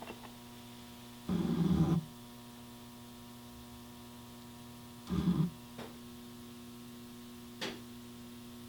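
Steady electrical mains hum, with two short handling noises and a single sharp click.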